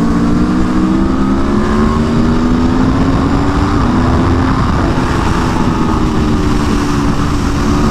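2022 Aprilia Tuono V4 1100 Factory's V4 engine pulling hard under acceleration, its pitch climbing steadily. It drops suddenly on an upshift about four seconds in, climbs again, and shifts up once more near the end.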